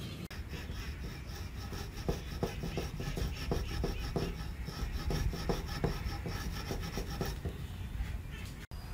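A hand tool working wood in quick repeated strokes, about two or three a second, for several seconds, which stops abruptly near the end.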